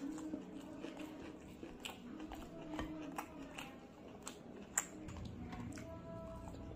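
Close-miked chewing of raw red onion: irregular crisp crunches and wet clicks from the mouth.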